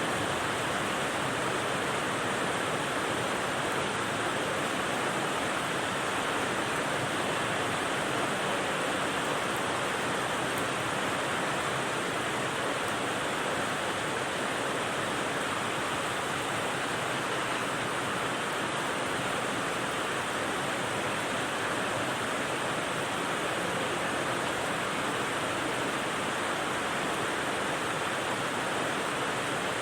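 Steady rain white noise: an even, unchanging hiss of rainfall with no distinct drops or changes.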